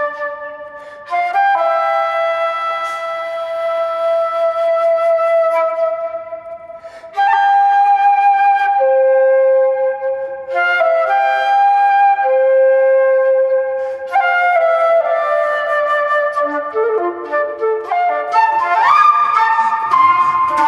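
Flute playing a slow melody of long held notes, with short breaks between phrases about one and seven seconds in and quicker notes near the end.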